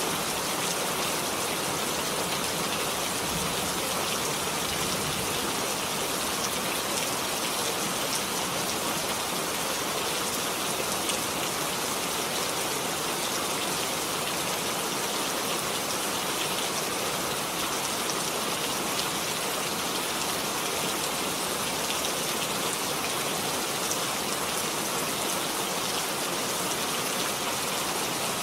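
Steady rain falling, with fine patters of drops on a surface.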